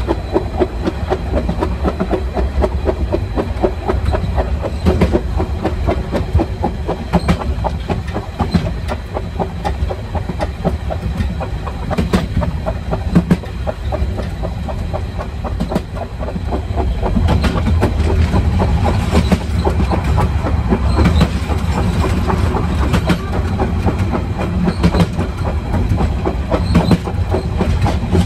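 A metre-gauge Harz narrow-gauge train rolling along at speed, heard aboard: a steady low rumble with wheels clattering clickety-clack over the rail joints.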